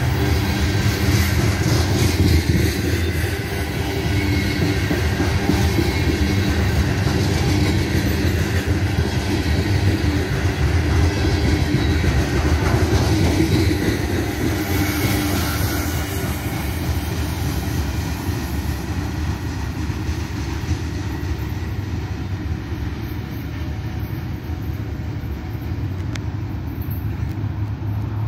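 Covered hopper cars of a freight grain train rolling past close by, a steady rumble with clatter of wheels on the rails. The sound eases off over the last ten seconds or so as the end of the train goes by.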